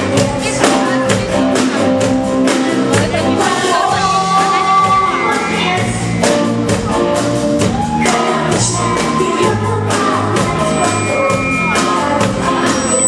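Live rock band playing a song: a steady drumbeat under guitar and a singer's voice.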